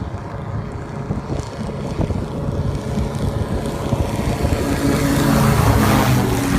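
Airfish 8 ground-effect craft skimming over water, its engine and propeller running with a steady rush of wind and water. The engine drone grows stronger and louder over the second half.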